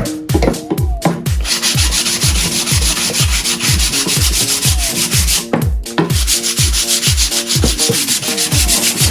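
Wood being sanded, a loud even rasping that starts about a second and a half in and pauses briefly about halfway, over background dance music with a steady thumping beat.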